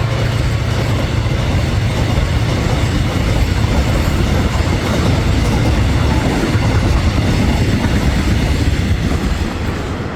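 A train passing close by: a heavy, steady rumble with wheels clattering over the rail joints, easing off slightly near the end.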